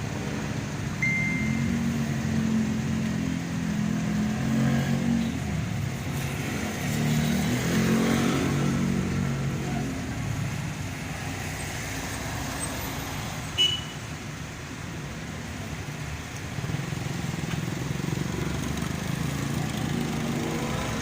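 Road vehicle engines running in street traffic, one low engine note shifting up and down in pitch through the first half. A single sharp click or knock comes about two-thirds of the way in.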